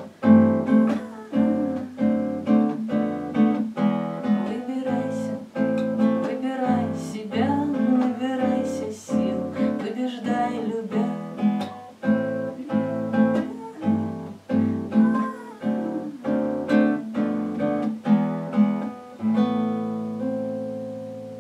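Acoustic guitar strummed in a steady rhythm, ending about nineteen seconds in on a final chord that is left to ring and fade.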